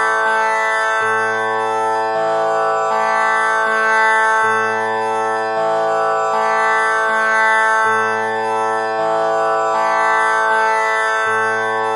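Tanpura drone tuned to A as the tonic, its strings plucked one after another in an unbroken repeating cycle about every three and a half seconds, the lowest string entering at the start of each cycle. The notes overlap into a steady buzzing, harmonic-rich drone.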